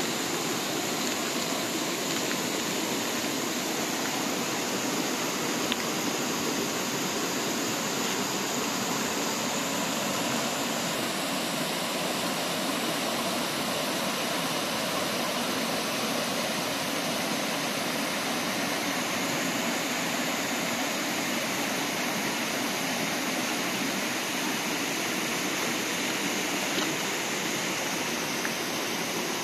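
Steady rushing of flowing water, an even hiss and rumble without pauses.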